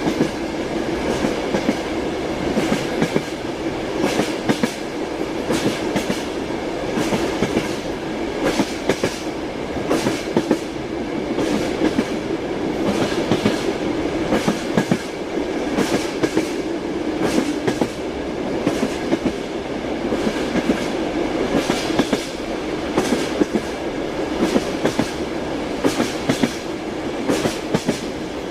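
Passenger train wheels clacking over the rail joints in frequent, uneven clicks over the carriage's steady rumble, heard from inside a sleeping compartment.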